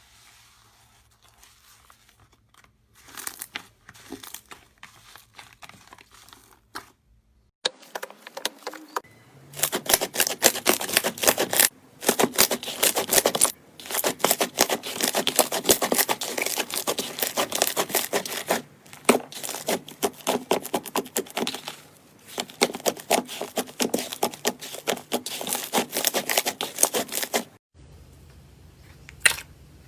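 Slime being squeezed and pressed by hand, giving a dense run of crackling and popping from about eight seconds in until it cuts off near the end, with faint scattered clicks before it.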